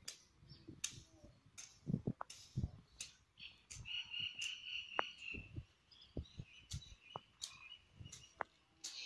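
Birds chirping outdoors, with a trilling call from about three and a half to five and a half seconds in and another near the end, among irregular sharp clicks and soft low thumps.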